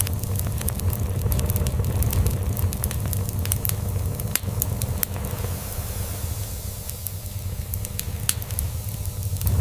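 Log fire crackling, with scattered sharp pops and snaps, over a cat's low, steady purring.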